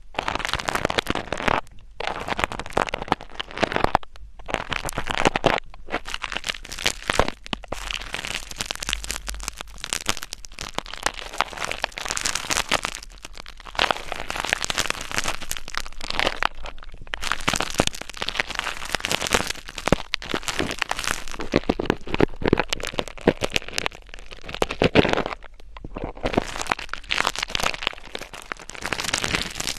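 Close-miked ASMR scratching: dense crackling right at the microphone, in irregular bursts with short pauses between them.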